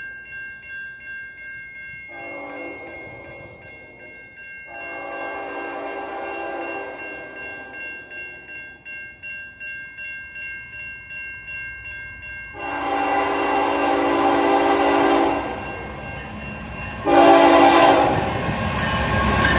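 Freight train locomotive horn, a GE Evolution-series unit, sounded four times: a shorter blast about two seconds in, then three longer blasts, the last two louder. Under the first part a bell rings steadily with a quick regular pulse.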